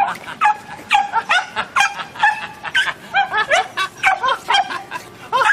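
Several dachshunds yipping and whining in excited greeting: short, high-pitched calls at different pitches, overlapping, several a second.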